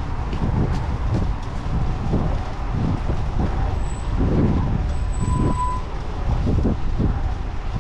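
Steady, uneven low rumble of wind buffeting the microphone on a moving bicycle, mixed with city street traffic noise.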